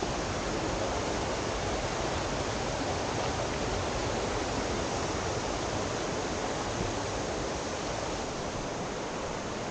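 Rushing water, a steady even rush that does not change.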